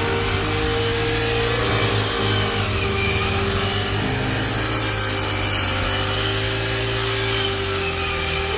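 Rice harvesting machine running: a steady engine drone with a rasping, grinding mechanical noise over it.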